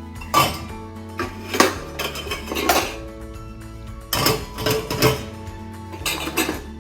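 Dishes knocking and clinking as they are set into a dishwasher rack, six or so separate knocks, over background music.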